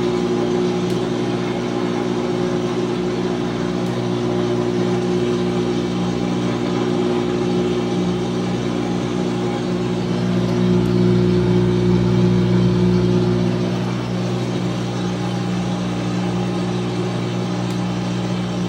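2006 GE Profile top-loading wash-plate washer running with a steady mechanical hum, a little louder for a few seconds past the middle.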